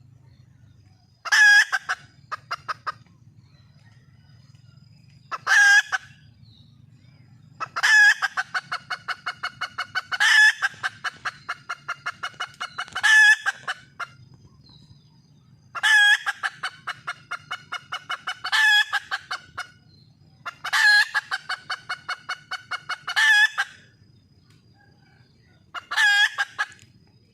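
Red junglefowl hen calling over and over: about ten bouts, each a loud note that runs straight into a quick string of short clucking notes, the call a wild hen gives when seeking a mate.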